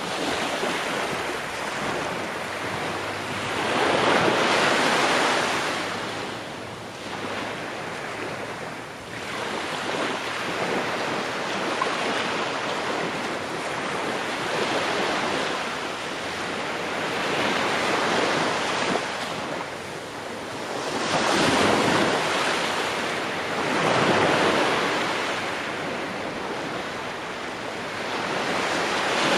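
Ocean waves breaking on a shore, a continuous wash of surf that swells and subsides, with several louder surges as bigger waves break.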